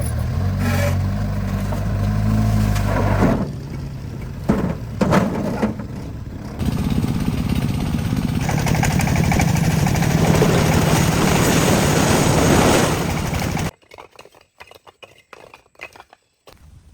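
Truck engine running steadily, easing off for a few seconds and then pulling loud again. It cuts off suddenly near the end, leaving only faint clicks.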